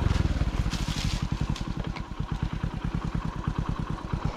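Motorcycle engine easing off right at the start and settling into a steady idle, its firing strokes heard as an even, low pulsing.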